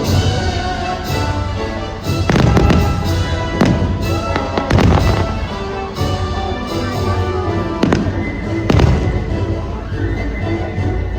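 Fireworks bursting with several loud bangs and crackles over patriotic show music.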